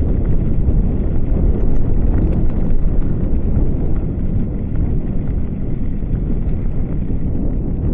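Strong wind buffeting the microphone as a steady, loud low rumble, mixed with the rolling noise of a bicycle being ridden.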